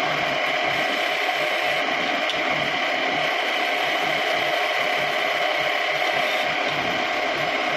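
Homemade wood lathe running steadily while turning wood, an even machine noise with no breaks.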